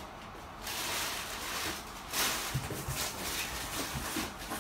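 Packing paper and a cardboard box rustling and crinkling as hands dig through it, with a few soft knocks.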